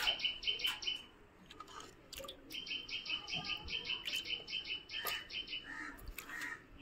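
A bird calling in rapid runs of short, high chirps, about seven a second: one run at the start and another from about two and a half seconds in. Faint clicks and scrapes of a green mango being peeled against a boti blade come in between.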